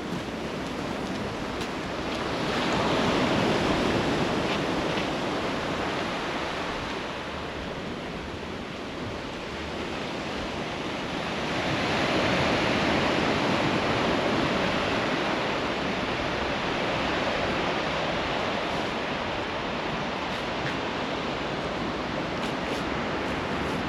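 Sea waves breaking and washing on the beach: a steady rush of surf that swells louder twice, about three seconds in and again about twelve seconds in.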